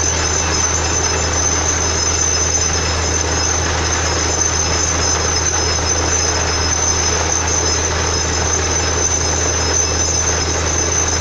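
Borewell drilling rig running steadily: a loud continuous machine noise with a low engine hum underneath and a steady high whine on top.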